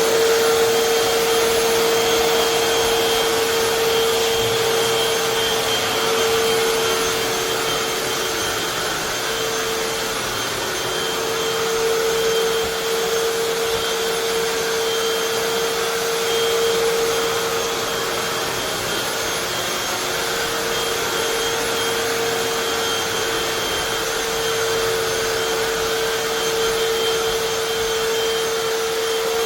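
Hoover FloorMate Deluxe wet/dry hard-floor cleaner running continuously, its suction motor giving a steady whine at one constant pitch over a steady rushing noise.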